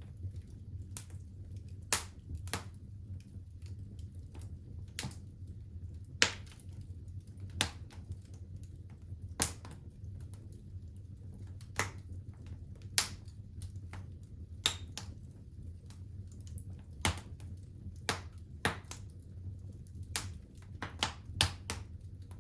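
Wood fire in a fireplace crackling: irregular sharp pops and snaps, one to several a second, over a steady low rumble of the burning.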